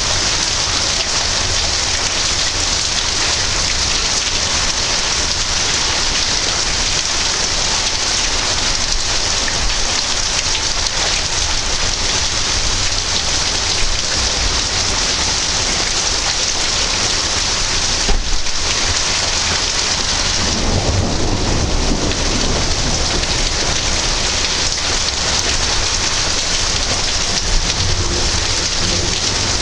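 Steady rain falling in a thunderstorm, a continuous hiss. About two-thirds of the way through a sharp crack is followed by a low rolling rumble of thunder.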